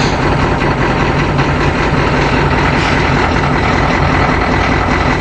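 A 1987 Ford E350's 6.9L International IDI V8 diesel idling steadily, just after a cold start from two months of sitting.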